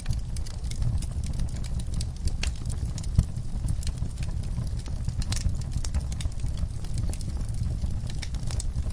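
Wood fire burning in a fireplace: irregular crackles and pops over a low steady rumble, with one sharper pop about three seconds in.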